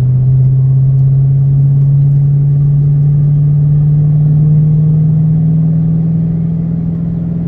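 2006 Ford Mustang GT's 4.6-litre V8 running under load while driving, a steady drone that rises slowly in pitch as the car gains speed.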